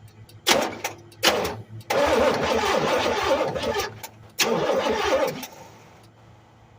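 Buick 455 V8 being cranked by its starter in four bursts, the third the longest at about two seconds, after a points-to-HEI ignition swap; it does not settle into running.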